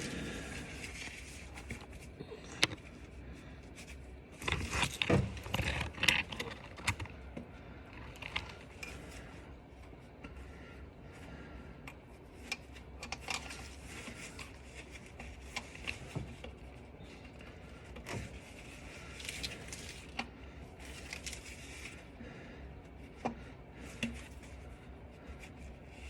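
Hand tools and bolts clinking, scraping and rattling against metal during car repair work, with scattered sharp clicks throughout and a busier clatter about five seconds in.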